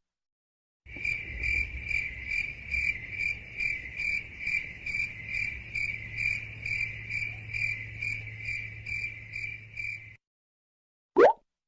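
Crickets chirping sound effect, the meme used for an awkward silence: a steady high trill pulsing two to three times a second over a low hum. It cuts off about ten seconds in, and a short rising swish follows near the end.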